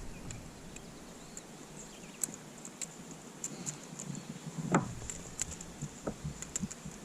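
Light clicking and rattling of hooks and handling while a hooked smallmouth bass is worked free of a crankbait in a kayak, with one louder knock about five seconds in.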